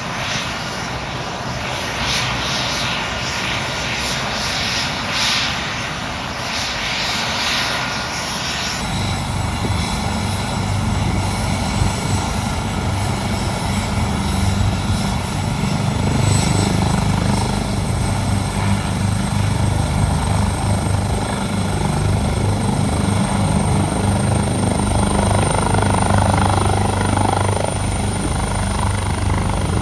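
AgustaWestland AW139 twin-turbine helicopter running, turbine whine over rotor noise. About nine seconds in the sound changes abruptly to a strong, fast low rotor beat, and a thin high turbine whine slowly rises in pitch through the rest.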